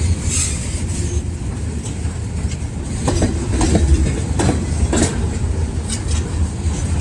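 Freight cars of a CSX maintenance-of-way rail train rolling past: a steady low rumble with irregular sharp clicks and knocks as the wheels pass over the rail joints.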